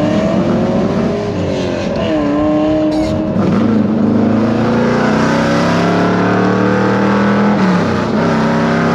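Big-block V8, a 502 cubic-inch, of a 1969 Chevelle SS running under way. The engine note climbs in pitch and falls back about three times.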